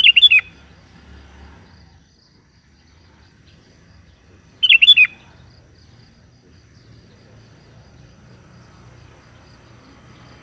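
Sooty-headed bulbul giving two short calls about four and a half seconds apart, each a quick run of three or four falling notes.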